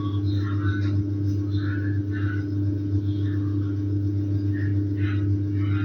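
A parakeet giving short, separate chattering calls over a loud, steady low hum.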